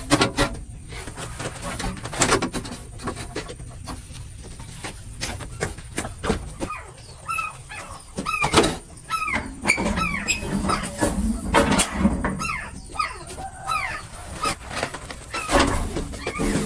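Chickens giving short, falling calls, many in quick succession, amid repeated knocks and clattering.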